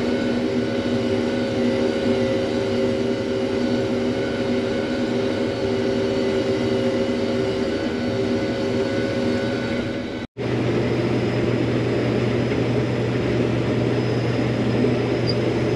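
Farm vehicle engine running steadily on the move. About ten seconds in the sound cuts off abruptly, and a steady hum with a stronger low tone takes over.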